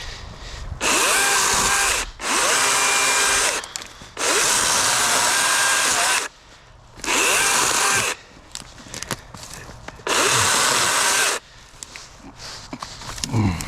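DeWalt 60-volt brushless battery chainsaw with a 16-inch bar running in five short full-speed bursts of one to two seconds each, starting and stopping abruptly as the trigger is pulled and released.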